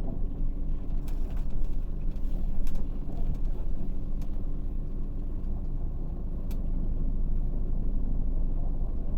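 Scania K400 bus's inline six-cylinder diesel engine running steadily with a low drone, with a few light clicks or rattles on top; it grows a little louder about seven seconds in.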